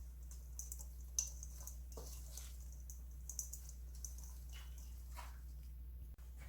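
Hands tossing seasoned garlic chives in a bowl: faint soft, wet rustles and light clicks scattered through, over a steady low hum.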